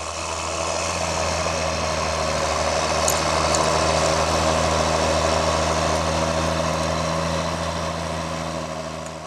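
Tractor diesel engine running with a steady low hum, growing louder to about the middle and fading away near the end.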